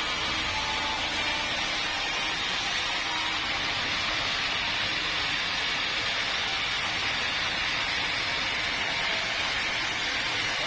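Sawmill machinery running: a steady, even rushing noise with no clear pitch. The highest part of the hiss drops away about three seconds in.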